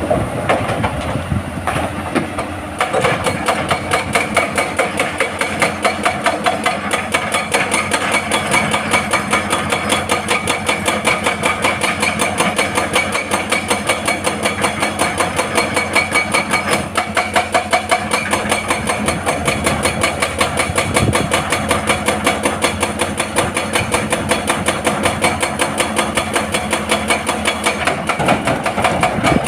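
Hydraulic breaker on a Hitachi excavator hammering rock in a fast, even train of blows that starts about three seconds in, over the excavator's diesel engine running under load.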